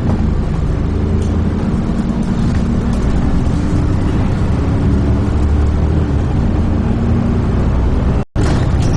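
Dennis Trident 2 double-decker bus engine running with road rumble as the bus drives along. The sound cuts out for a moment near the end, then carries on as before.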